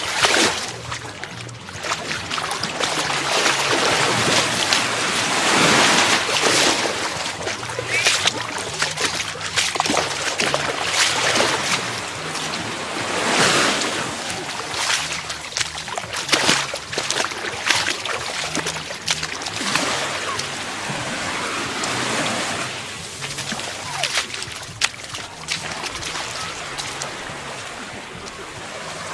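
Gulf of Mexico surf: small waves breaking and washing up on sand, the wash swelling and fading every few seconds.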